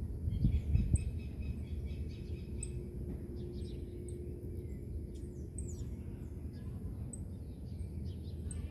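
Outdoor ambience: small birds chirping, one repeating a short high chirp about once a second, over a steady low rumble of wind and distant road traffic, with wind gusting on the microphone in the first second.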